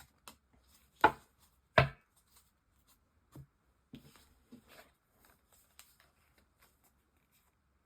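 Tarot cards being handled on a table: two sharp knocks about a second in, then soft scattered clicks and rustles of the cards.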